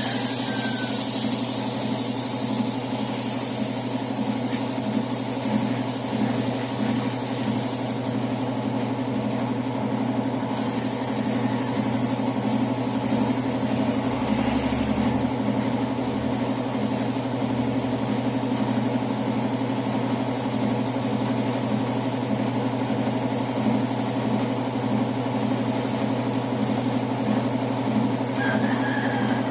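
Paint spray gun hissing steadily as compressed air and paint are sprayed, the hiss dropping out briefly about ten seconds in, over a steady low hum.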